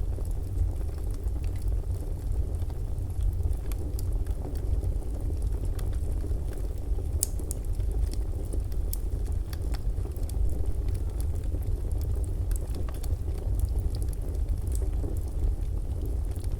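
Wood fire burning in a fireplace: a steady low rumble with irregular crackles and small pops scattered throughout.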